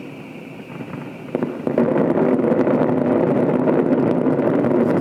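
A crowd breaking into loud, sustained cheering and applause about a second and a half in, after a quieter stretch of fading noise.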